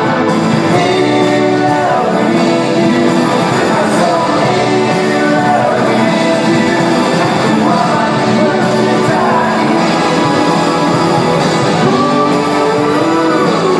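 Rock band playing live, a singer holding long notes over the band.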